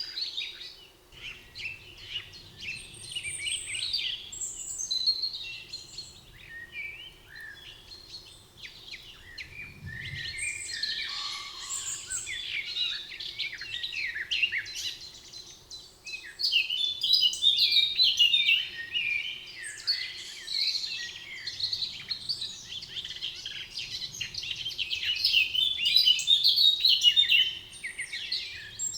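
Songbirds in a spring forest singing and chirping, many short overlapping phrases and trills at once, getting busier and louder in the second half before easing off near the end.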